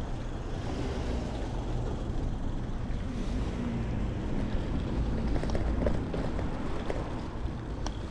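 Steady low rumble of wind and road noise on an action camera's microphone while riding an e-bike, with a few faint ticks in the second half.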